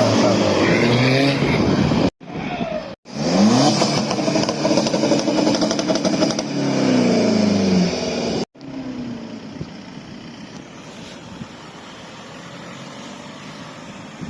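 Car engines revving hard, their pitch climbing and falling, in loud bursts broken off suddenly about two and three seconds in. After about eight and a half seconds it gives way to a quieter, steady running engine.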